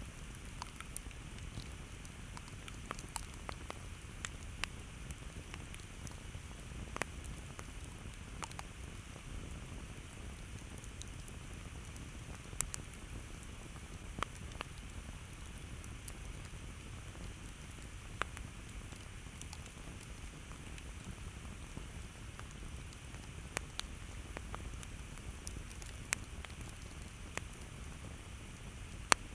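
Campfire burning: a steady low hiss with irregular sharp crackles and pops, roughly one every two seconds, the loudest just before the end.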